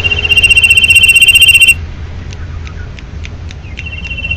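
Common iora singing: a loud, rapid trill held on one high pitch for about a second and a half, then a short pause with a few faint ticks, and the same trill starting again near the end.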